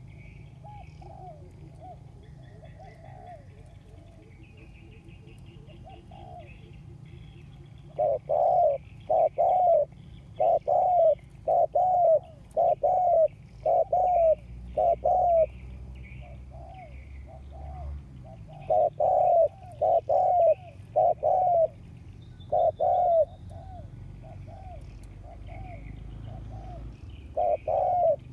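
Decoy spotted dove cooing vigorously in long runs of loud, evenly repeated coo notes, starting about eight seconds in after softer coos. Small birds chirp faintly in the background.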